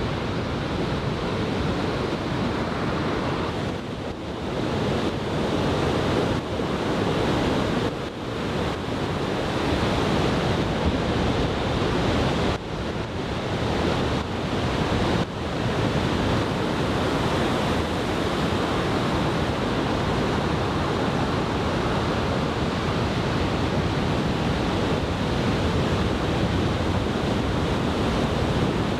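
Large typhoon-swell surf breaking and rushing onto the shore in a continuous heavy wash, with wind buffeting the microphone.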